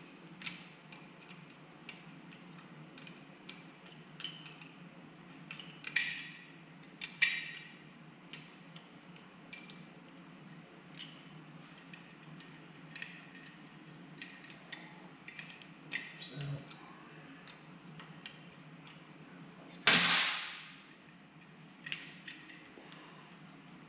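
Hand work on a motorcycle clutch cable and its fittings: scattered small metal clicks and clinks of tools and parts, with louder clanks about 6 and 7 seconds in and the loudest clank, briefly ringing, about 20 seconds in.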